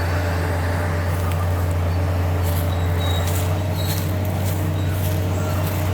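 Steady, unchanging low engine drone, with a few faint rustles in the middle.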